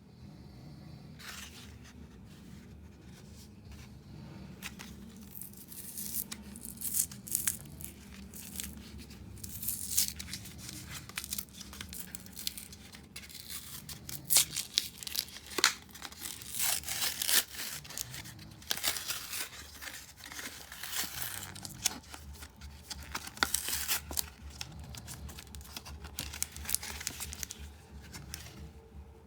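Yu-Gi-Oh booster pack wrappers being torn open and crinkled by hand: a run of sharp tearing and rustling strokes that starts about a second in and goes on until near the end.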